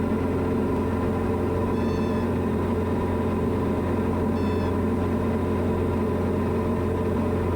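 Cockpit drone of a Diamond light aircraft's piston engine and propeller running at climb power after takeoff, steady and unchanging. Two brief faint high tones sound about two seconds and four and a half seconds in.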